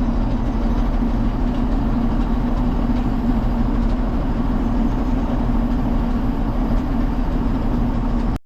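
Tractor engine running steadily with a constant low hum, cutting off abruptly near the end.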